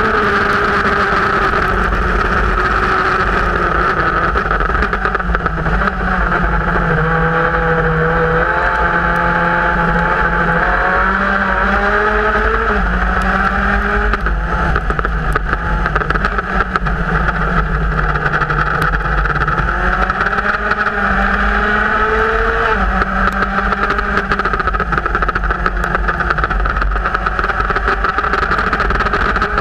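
Onboard sound of a Formula Speed 2.0 open-wheel race car at racing speed: the engine note climbs and falls over and over, with sudden steps in pitch as it shifts through the gears, over a steady rush of noise.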